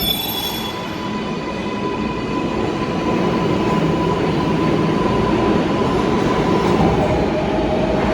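R188 subway train running, heard from inside the car: steady wheel-and-rail rumble with a motor whine that drops to a lower steady tone about seven seconds in.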